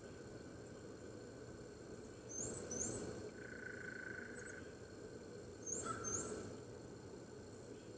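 A small bird's short, high, two-note chirp, repeated twice about three seconds apart, over a steady outdoor hiss. A faint, level held tone lasts about a second between the two calls.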